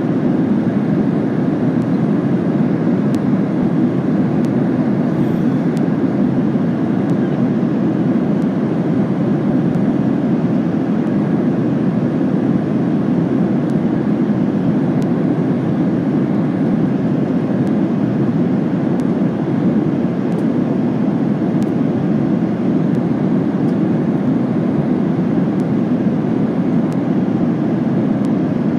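Steady cabin roar inside a Boeing 737-800 in cruise: a constant low rush of engine and airflow noise heard from an economy seat.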